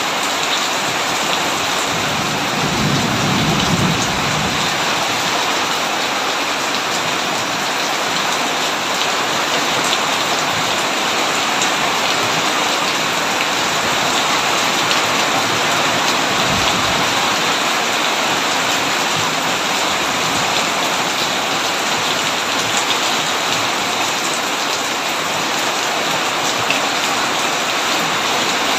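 Heavy, steady rain pouring down, with a short low rumble of thunder about two to four seconds in and a brief low thud around the middle.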